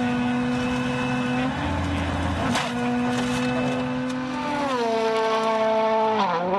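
Rally car engine held at steady high revs, with a sharp crack about two and a half seconds in. Its note then drops twice as the driver lifts off, the second drop sudden near the end.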